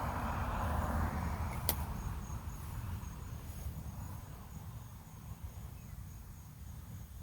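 Crickets chirping in a steady, evenly pulsed high trill, over a low rumbling noise, with one sharp click about a second and a half in.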